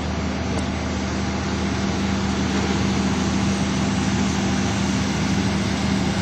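An engine running steadily, a constant low drone with a hum of fixed pitch.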